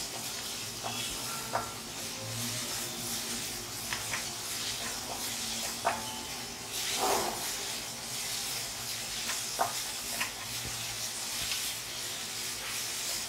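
Chopped garlic, ginger and spring onions sizzling in hot oil in a steel wok over a high gas flame, stirred with a wooden spatula that knocks and scrapes against the metal a few times.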